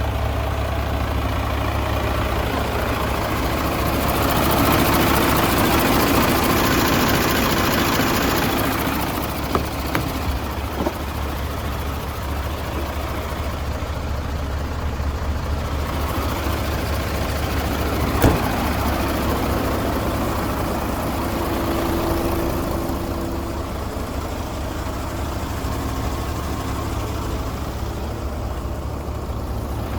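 An engine idling steadily with a strong low hum, louder for a few seconds near the start, and a couple of sharp knocks around ten and eighteen seconds in.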